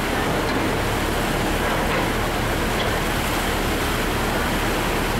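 Steady rushing noise from riding in a moving pickup truck: a low engine rumble under an even hiss.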